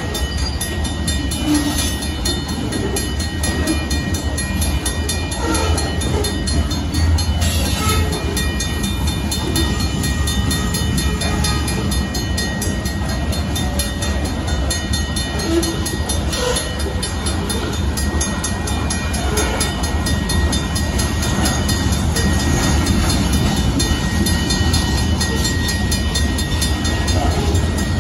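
Freight train of covered hopper cars rolling past: a steady, heavy rumble of steel wheels on the rails. The grade-crossing warning bell rings rapidly and evenly over it.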